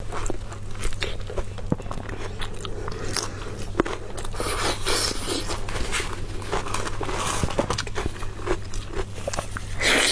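Close-up mouth sounds of a person biting into and chewing crisp-crusted fried dough, with many short crunches and wet chewing clicks, over a steady low hum.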